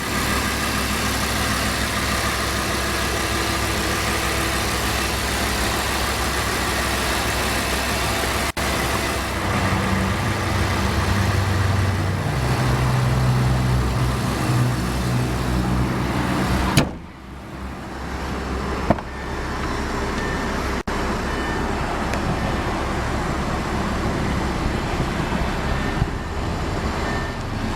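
A car engine running steadily. Its low rumble swells in the middle, then drops abruptly about 17 seconds in, and a single click follows.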